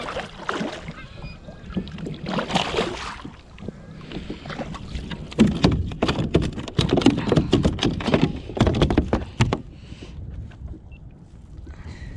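Water splashing and clattering knocks around a kayak, with a dense run of knocks and splashes from about five and a half to nine and a half seconds in, then quieter.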